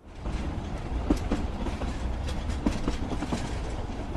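Train running on the rails: a steady low rumble with sharp wheel clacks at irregular intervals.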